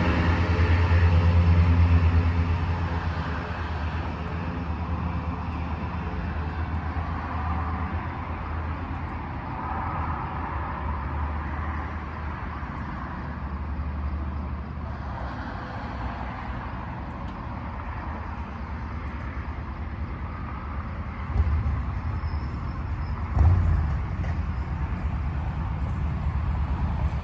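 Vehicle engine idling, a steady low rumble that is loudest in the first couple of seconds and then settles lower. Near the end come two sudden short thumps about two seconds apart.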